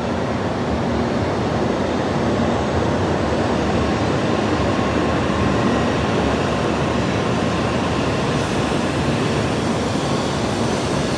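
Tokaido Shinkansen train pulling into the platform: a steady rumble and rush of the moving train, with a brighter hiss joining from about eight seconds in.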